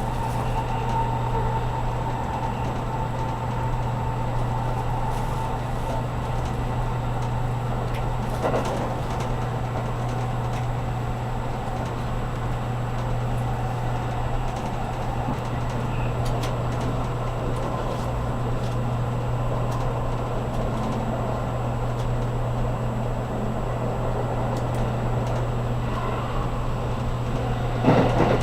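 Cabin running noise of a JR Kyushu 783 series electric limited express at speed: a steady low hum and rumble of the wheels on the rails. A brief knock comes about eight seconds in, and a louder one near the end.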